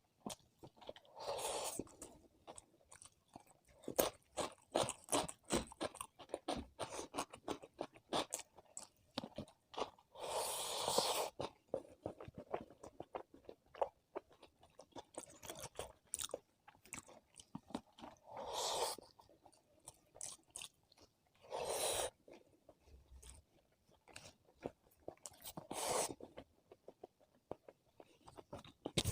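Close-miked eating: steady chewing with many short mouth clicks, broken by about five louder crunching bites lasting up to a second each.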